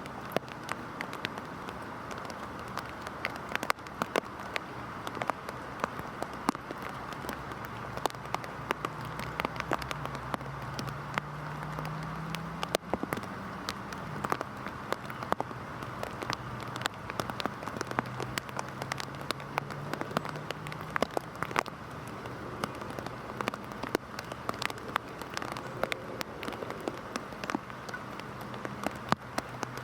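Heavy rain falling: a steady hiss with many sharp, close drop impacts. A faint low hum wavers underneath from about a third of the way in until about two-thirds through.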